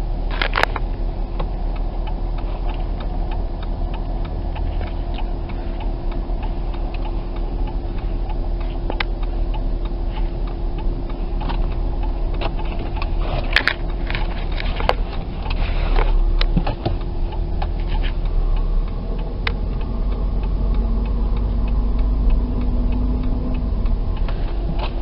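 Dodge Caravan V6 engine idling under the open hood, a steady hum with irregular ticks and clicks over it. The owner puts the ticking down to loose rear spark plugs, and the alternator pulley on this engine is seized.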